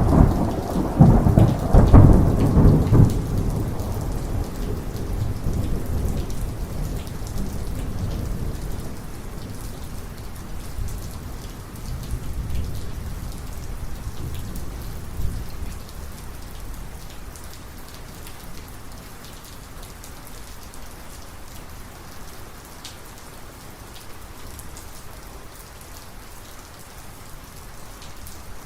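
A close thunderclap cracks right at the start, followed by a long rolling rumble of thunder that dies away over about fifteen seconds. Steady rain falls throughout.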